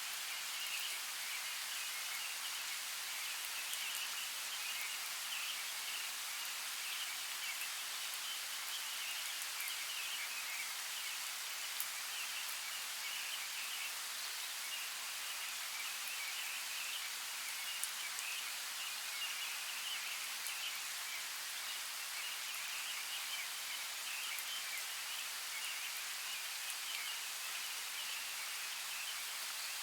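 Steady rain falling, an even hiss with a couple of sharper drop ticks.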